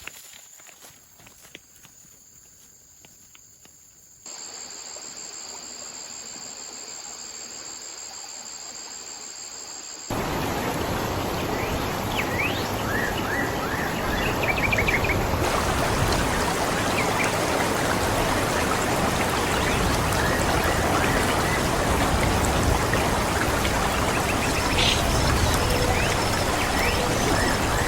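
Forest ambience: a steady high insect drone. From about ten seconds in, a loud, steady rushing noise takes over, with a few short bird chirps.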